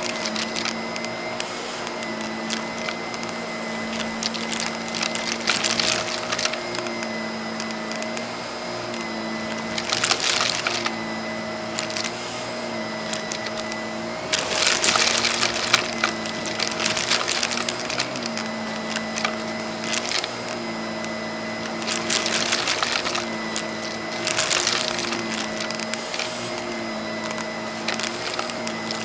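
Vacuum cleaner running steadily with a humming motor whose pitch wavers slightly, while cut-up cardboard puzzle pieces are sucked up and rattle and crackle through the nozzle and hose in bursts every few seconds, loudest about fifteen seconds in.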